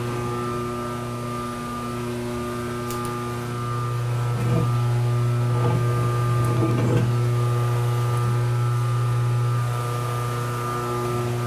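Steady electric machine hum in a machine shop, with a few soft knocks a little past the middle as the workpiece is handled.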